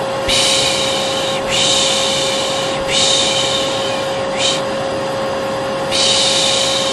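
Steady vacuum cleaner drone with a constant hum, overlaid by a person's repeated long 'shhh' shushing sounds. This is the Turkish 'piş piş' used to lull a baby. Three shushes come about every second and a half, then a short one, a pause, and another near the end.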